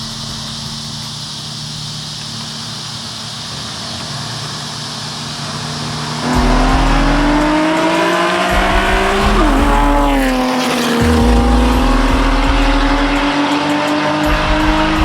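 A car's engine running steadily, then launched hard about six seconds in: the revs climb, dip briefly at a gear change a few seconds later, then climb again as it pulls away loudly.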